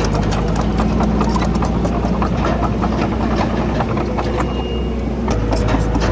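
Komatsu D31PX crawler bulldozer's diesel engine running steadily, with a dense irregular clatter of steel tracks and rock. The engine note shifts about five seconds in.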